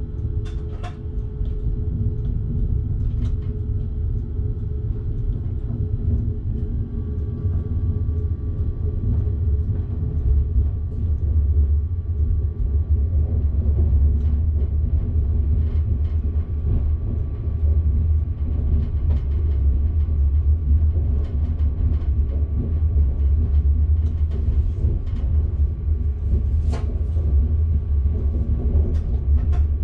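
Train running, heard from inside the driver's cab: a steady low rumble that grows a little louder partway through. Scattered sharp clicks and a faint steady whine sit over it.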